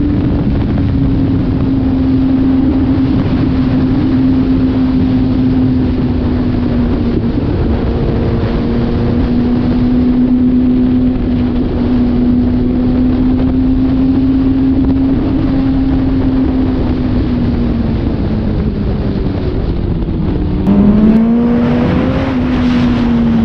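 Sport bike inline-four engine running at steady high revs under a rushing haze of wind noise. About three seconds before the end the pitch drops and climbs again, with a brief loud burst.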